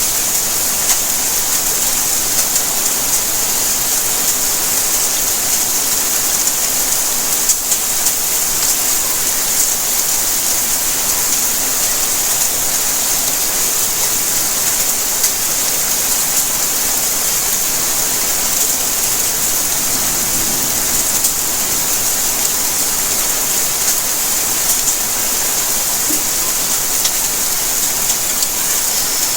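Steady rainfall: a continuous even hiss of rain with scattered drops ticking on surfaces.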